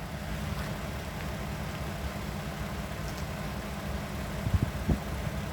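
Diesel locomotive engine idling with a steady low rumble, with a few short low knocks a little before the end.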